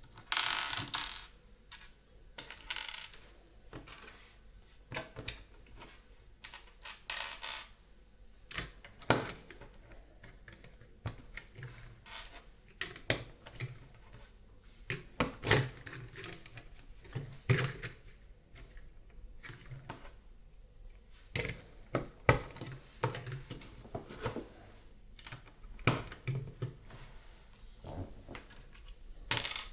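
Small plastic LEGO pieces rattling and clicking as they are picked through and handled, with sharp irregular clicks of bricks being set and pressed together, and short rattling flurries near the start and around seven seconds in.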